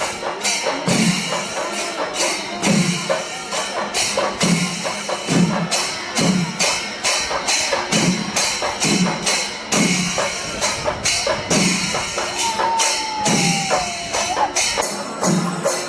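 Kerala temple percussion ensemble playing: ilathalam hand cymbals clash in a quick, even rhythm over drum strokes about once a second. About two-thirds through, a brief wavering tone falls in pitch over the beat.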